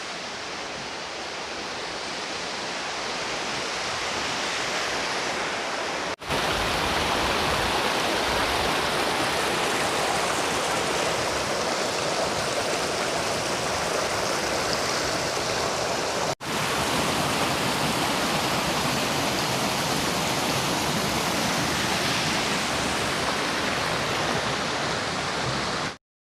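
Waterfall rushing steadily, a dense even wash of water noise that grows louder over the first few seconds, drops out for an instant twice, and stops abruptly near the end.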